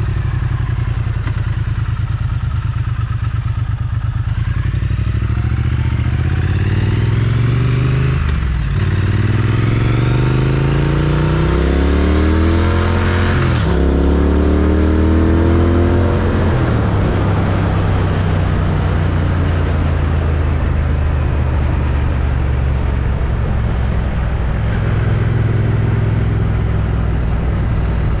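Triumph Street Twin's stock-exhaust 900 cc parallel-twin engine pulling through the gears. The engine note rises, breaks off for an upshift about eight seconds in and again near fourteen seconds, then drops and settles to a steady cruise. Wind rushes over the helmet-mounted microphone throughout.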